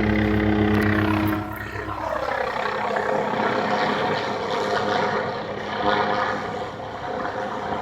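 Helicopter flying overhead: a steady rotor and engine drone with a pulsing low hum at first, whose pitch slides down about a second and a half in as it passes, then a steadier drone.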